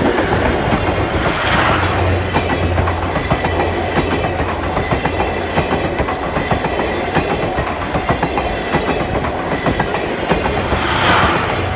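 Passenger train of 12 series coaches hauled by the steam locomotive C57 180 rolling past close by, its wheels clicking steadily over the rail joints.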